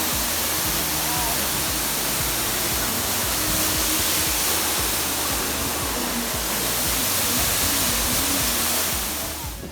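Steady rush of a waterfall, with background music underneath. The water sound fades out near the end, leaving the music.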